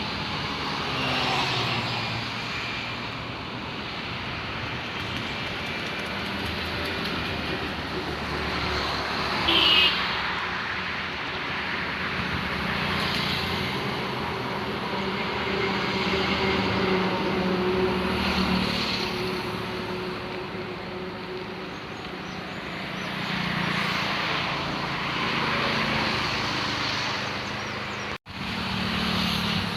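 Steady engine drone with rushing noise, as heard from inside a moving vehicle or aircraft. It drops out sharply for a moment near the end.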